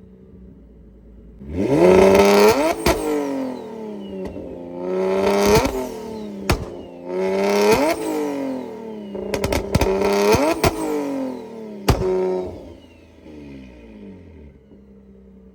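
Single-turbo Infiniti G35's V6 free-revved four times in a row, each rev climbing in pitch and falling back to idle with sharp cracks from the exhaust. A turbo whistle falls away after each rev.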